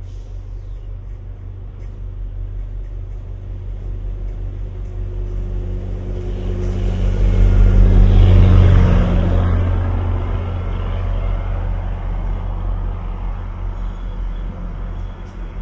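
A diesel-hauled NJ Transit train led by an EMD F40PH-2C locomotive passing, its engine a steady low hum. It grows to a loud peak of engine and wheel-on-rail rush about eight seconds in, then eases off.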